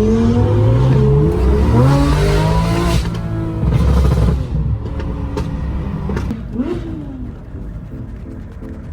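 Sports car engine accelerating hard, its pitch climbing in a few rising pulls, then dropping and fading away.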